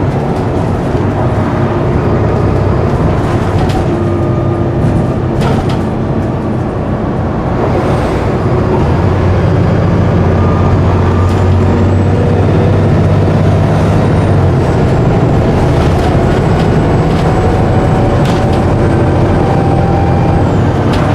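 Bus diesel engine running as the bus drives: a steady low drone that grows louder about nine seconds in, with occasional knocks and rattles.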